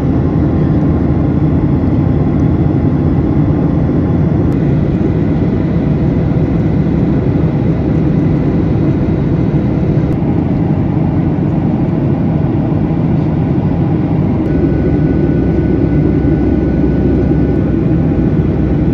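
Steady roar of a Boeing 737-800's cabin in flight: airflow and engine rumble heard from a seat beside the wing.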